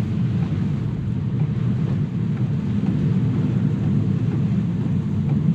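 Steady road and tyre noise of an electric Tesla driving on a wet road in the rain, heard from inside the car.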